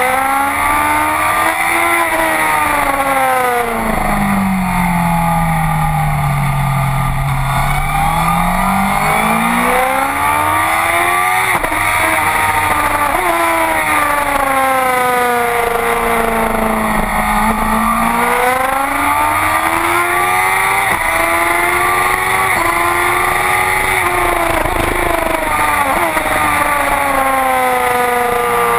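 Honda CBR1000RR sport bike's inline-four engine at track speed, its pitch sinking low as it slows and then climbing again, several times over, as it brakes into corners and accelerates out. Wind rush on the microphone runs under it.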